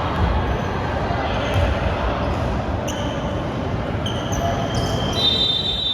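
Basketball game court sounds: the ball bouncing on a hardwood gym floor, several short high sneaker squeaks and a longer one near the end, over the voices of players and spectators in the gym.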